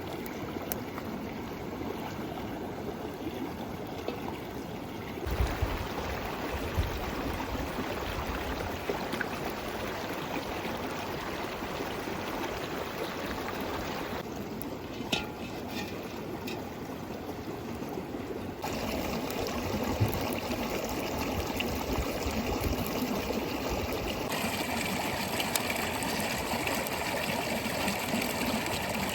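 Running water of a river or stream, a steady rushing and trickling that changes abruptly in tone several times.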